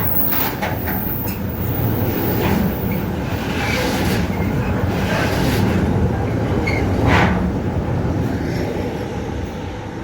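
A train running along the track: a steady rumble of wheels on rail, with scattered knocks over rail joints, the loudest about seven seconds in. The rumble eases slightly near the end.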